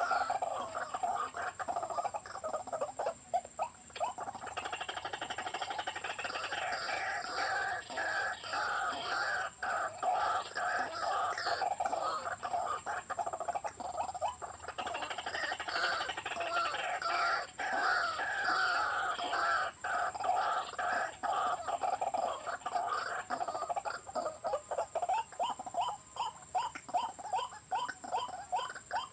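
White-breasted waterhens calling continuously with their repeated harsh croaking phrases, which quicken into a fast even run of notes near the end. A steady high-pitched tone sounds underneath.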